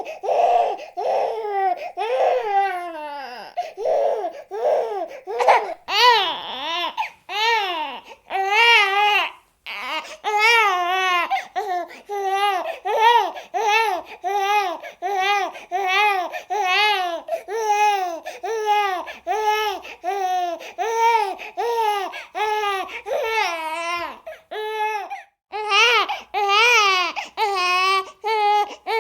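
Baby crying in short rhythmic wails, about one a second, each rising and falling in pitch, with brief catches for breath.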